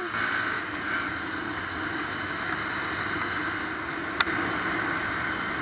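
Steady traffic and riding noise from a motorcycle moving through traffic, with one short sharp crack about four seconds in.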